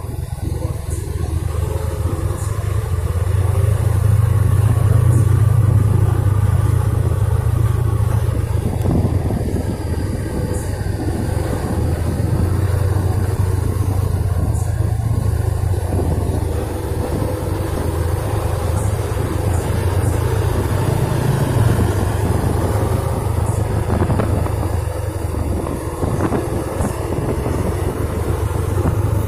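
Heavily loaded trucks' diesel engines running in a convoy, a steady low rumble that swells to its loudest about five seconds in and then holds.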